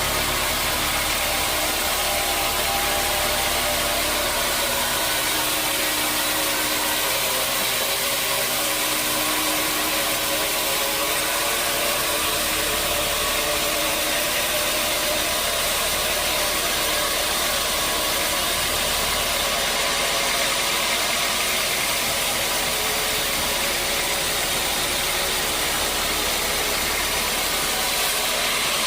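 Sawmill machinery running steadily, a constant mechanical noise with a hiss and a steady hum that stays the same throughout.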